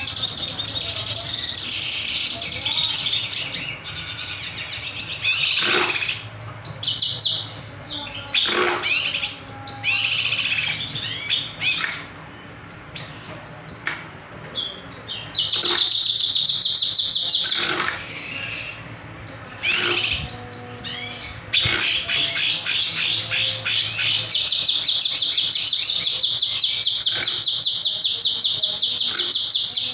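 Kinoy bird singing hard in a fast stream of sharp high chirps and whistles. It breaks off briefly a few times, then sings long, rapid, high rattling trills through the second half.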